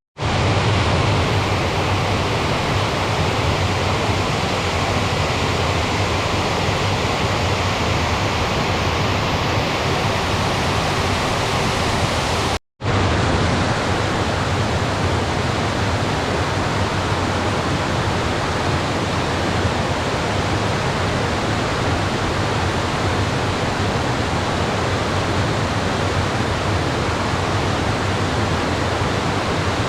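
Loud, steady rush of running water, broken by a brief dropout about thirteen seconds in.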